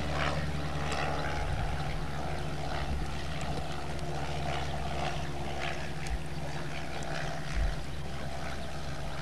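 A small boat's motor running steadily at low speed, a continuous drone while the boat pushes through floodwater.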